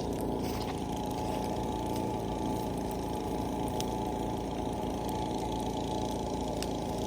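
A steady low drone, like a running motor, with a few sharp crackling pops from a wood and bamboo bonfire.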